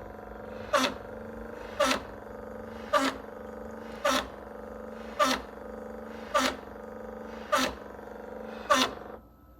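Ninja drip coffee maker running: a steady hum with a short spurt repeating evenly about once a second, typical of the pump pulsing water through while it brews. The run stops shortly before the end.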